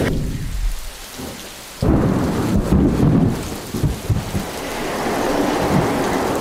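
Thunderstorm: rain hissing, then a sudden clap of thunder about two seconds in that rumbles for a couple of seconds before the steady downpour carries on.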